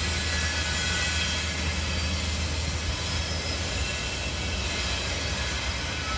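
Loaded cement freight train rolling slowly along the track, a steady low rumble with faint high wheel squeal over it.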